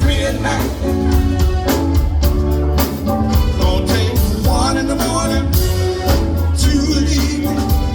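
A live band playing, with a heavy bass line and a steady drum beat under other instruments.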